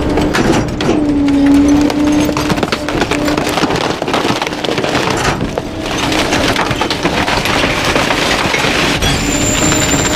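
Garbage truck packer crushing bulky waste: wood cracking and splintering under the compaction, over a steady low hum from the truck.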